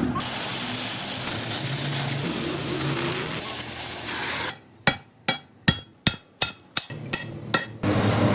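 A steady harsh hiss for about four and a half seconds, then about a dozen sharp hammer blows on metal, three or four a second, with short quiet gaps between them.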